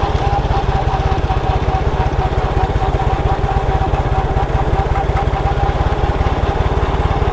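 Motorcycle engine running at a steady speed while riding: a rapid, even putter with a steady higher whine above it.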